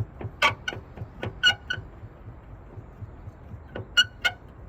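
Sharp metallic clicks from a car's sheet-metal body panel being pressed and flexed by hand during paintless dent repair. The clicks come in small clusters, each with a short ring, with a pause in the middle. A faint steady low hum runs underneath.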